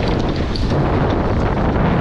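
Wind buffeting the microphone aboard a Nacra 20 beach catamaran under sail, a loud steady rumble with water rushing past the hulls.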